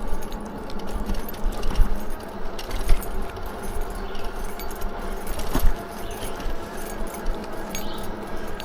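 Light jingling and rattling of a Lectric XP4 e-bike being ridden on pavement, with many small clicks over a steady low wind rumble on the microphone.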